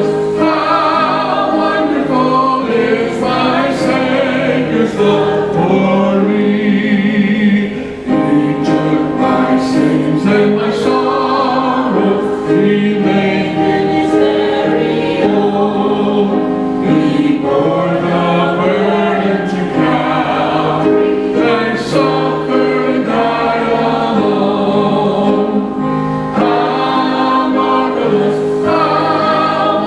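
A church congregation singing a hymn together, many voices holding long notes.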